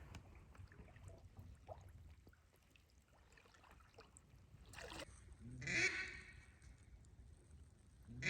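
Duck quacking: a loud run of quacks about five and a half seconds in, lasting around a second, after several seconds of faint, scattered rustling.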